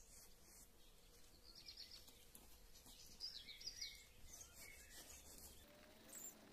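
Near silence with a few faint bird chirps, in two short bouts about two seconds and three and a half seconds in.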